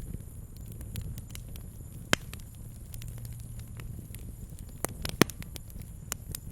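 Wood campfire crackling, with scattered sharp pops; the loudest come about two seconds in and twice around five seconds, over a low steady rumble.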